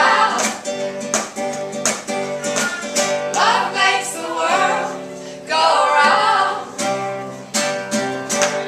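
Live acoustic folk band playing: plucked strings picked in a steady rhythm under sustained lower notes, with voices singing several long held phrases.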